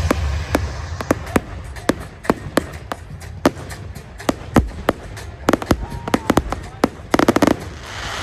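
Fireworks going off: sharp bangs at irregular intervals, one every half second or so, with a quick run of crackling bangs about seven seconds in.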